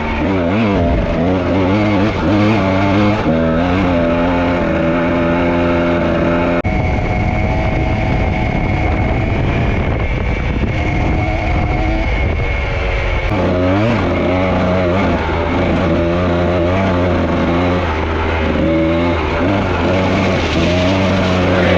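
Dirt bike engine running while being ridden, its revs climbing and dropping again and again. For several seconds in the middle a rushing noise covers the engine.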